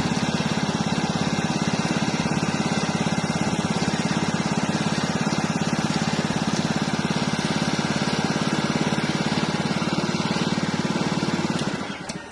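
Small Honda engine running steadily with a fast, even exhaust beat. Near the end the sound drops off sharply.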